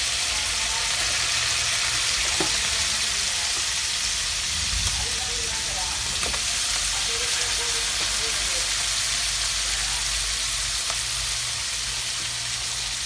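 Pork pieces sizzling steadily as they fry in oil in a wok, stirred with a metal ladle that clinks against the pan a few times.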